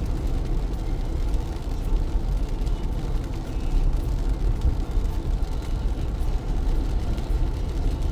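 Car driving on a wet road in heavy rain: a steady low rumble of road, tyre and engine noise mixed with the rain, with no distinct knocks or changes.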